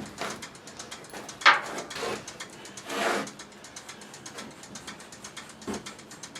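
A few knocks and a short scrape of small parts being handled on a workbench, the loudest a sharp knock about a second and a half in, over a fast, even ticking.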